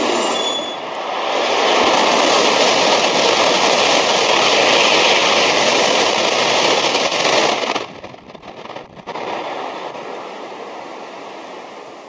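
A Shinkansen train passing through the station at speed: a loud, steady rush of wheel and air noise that cuts off abruptly about eight seconds in, leaving a fainter steady background noise.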